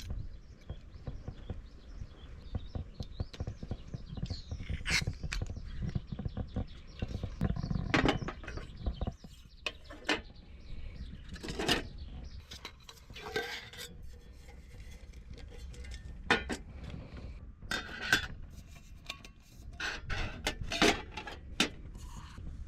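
Camp tableware and gear being handled and set out: irregular clinks and knocks of dishes and utensils, some ringing briefly, over a low rumble that stops about nine seconds in.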